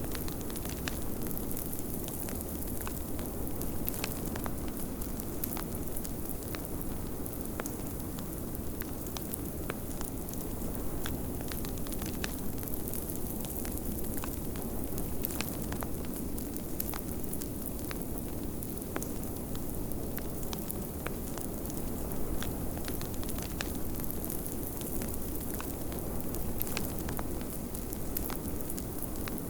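Wood fire crackling in a fireplace with many small, irregular pops, over a steady low rush of blizzard wind.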